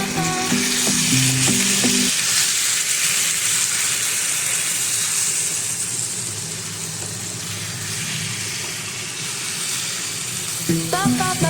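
Food frying in hot oil in a pan: a steady, high sizzling hiss. Background music plays for the first two seconds and comes back just before the end.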